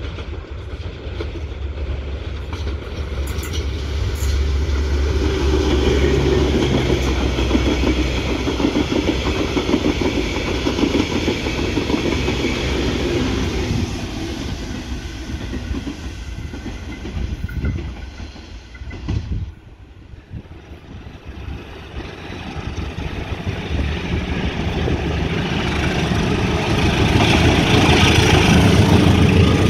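Train running on the track, a sustained rumble of the train passing. The sound drops sharply about twenty seconds in, then builds again to its loudest near the end.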